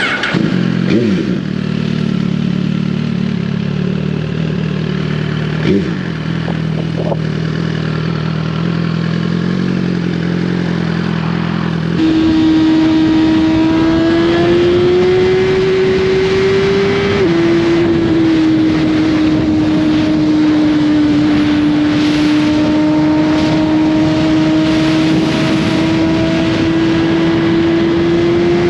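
Suzuki GSX-R1000 inline-four engine through an Austin Racing slip-on exhaust: first running low and steady with two short throttle blips, then about 12 s in suddenly louder and higher, holding a steady note under way, its pitch easing up and dropping back around 17 s.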